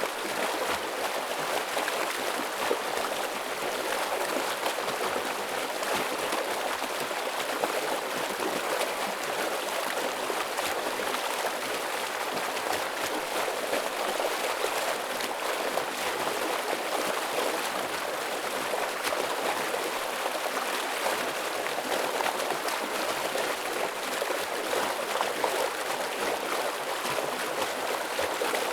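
Stream water rushing and splashing over rocks in a steady, unbroken flow.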